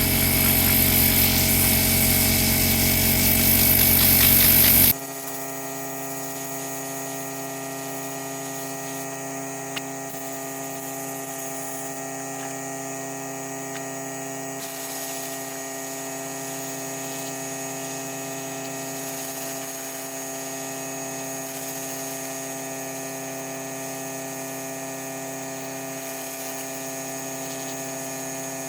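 A motor-driven power tool runs loudly and cuts off suddenly about five seconds in, leaving a steady electrical hum made of several constant tones.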